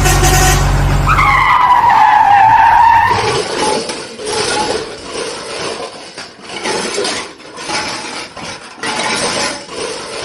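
Cartoon vehicle sound effects: a low engine drone, cut about a second in by a squeal that falls in pitch, then choppy, noisy rumbling with uneven loudness.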